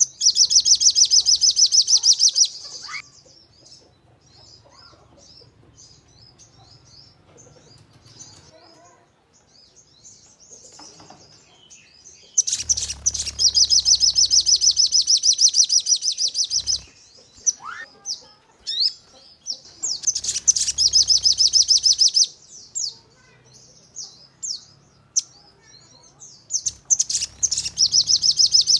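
Sogon songbird singing its 'nembak' song: four loud bursts of very rapid, high-pitched trilling, each a few seconds long, with short scattered chirps between them.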